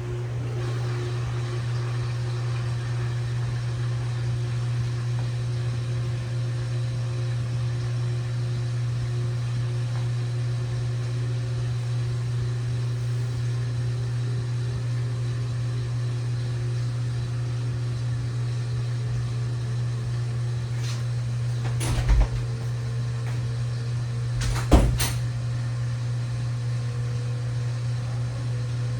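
LG WT7600HVA top-load washing machine running mid-cycle with a steady motor hum. Two sharp knocks come about three seconds apart near the end.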